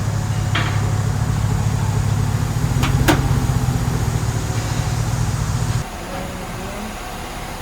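Vehicle engine idling with a steady low hum and a couple of sharp clicks about three seconds in. The hum cuts off abruptly near six seconds, leaving a quieter background.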